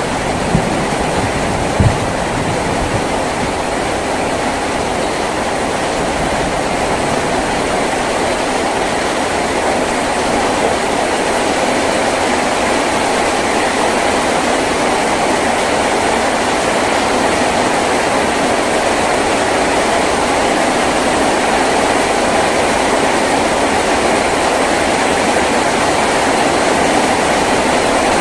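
Heavy rain drumming steadily on a tin roof, a dense continuous roar that grows slightly louder, with two brief knocks in the first two seconds.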